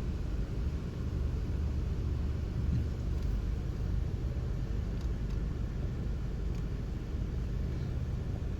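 Steady low rumble of an idling vehicle, heard from inside it, with a few faint ticks.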